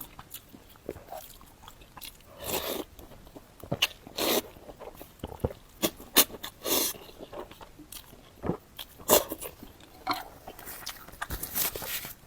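Close-miked eating of spicy Korean fire noodles: irregular chewing and biting with wet mouth clicks and several short slurps.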